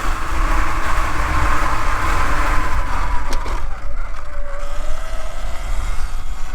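Segway X160 electric dirt bike being ridden: a faint electric motor whine that rises and falls in pitch with speed, under heavy wind rumble on the microphone.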